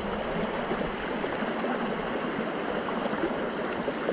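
Steady rushing of a river running high after floods.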